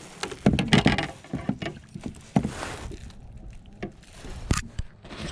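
Irregular knocks and bumps on a kayak with short rushes of noise, as a hooked fish is brought alongside. The loudest cluster comes about half a second to a second in, and there is a sharp single click near the end.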